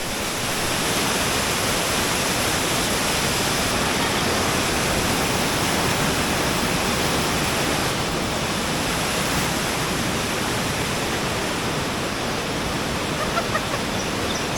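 Large waterfall pouring down in full flow: a steady, really loud rush of falling water.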